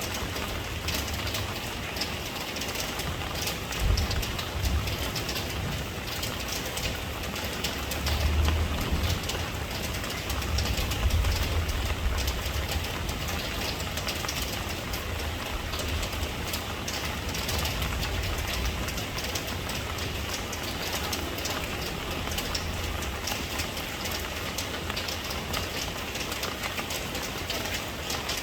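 Steady rain falling, an even hiss of drops, with a deep low rumble that swells about four seconds in and again for a few seconds around the tenth second.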